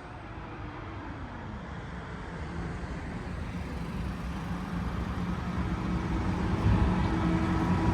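A bus approaching, its engine sound growing steadily louder, with a steady whine coming up over the rumble in the last couple of seconds.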